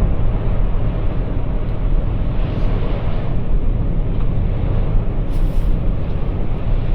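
Steady low tire and road rumble heard inside the cabin of a Toyota RAV4 Prime driving on Blizzak snow tires over a snow-covered highway.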